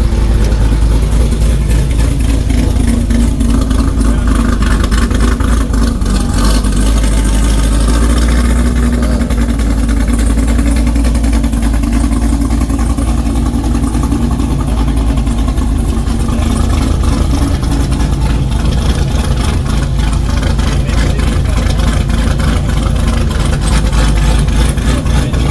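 Car engine running close by, idling with slow rises and falls in engine speed, heavy and loud throughout.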